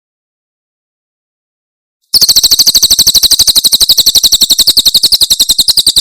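Cililin bird singing its 'tembakan' song: a rapid, even string of sharp, high chirped notes, about ten a second. It starts about two seconds in, after silence.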